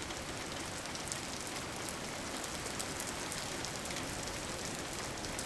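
Steady rain falling on a surface, an even hiss scattered with small drop ticks.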